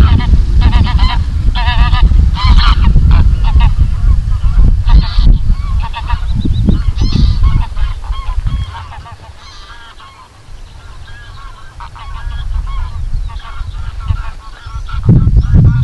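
A flock of geese honking in flight, with repeated overlapping calls that are loudest in the first few seconds and then go on more faintly. A low rumble of wind on the microphone runs underneath and eases about halfway through.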